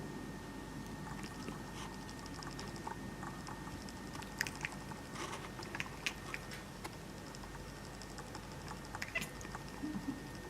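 A cat making quick, soft clicking and chirping sounds in scattered runs over a faint steady hum.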